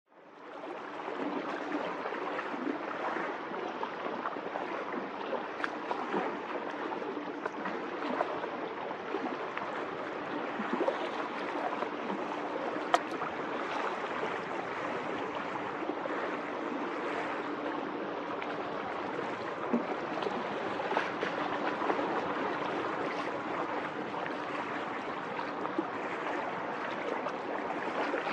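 Steady rushing of wind and choppy seawater, with a faint steady hum underneath, fading in at the start.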